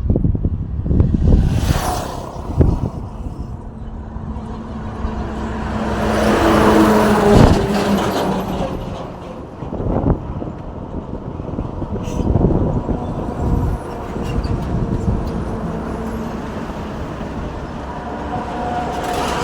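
Road traffic: cars and trucks passing with engine rumble. Several vehicles swell past, and the loudest goes by about seven seconds in.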